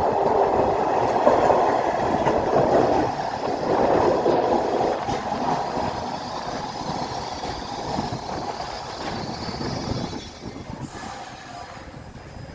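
Baltimore Metro Subway train running along the rails past the platform, its rumble loud at first and fading away over about ten seconds. A faint high whine sounds in the middle.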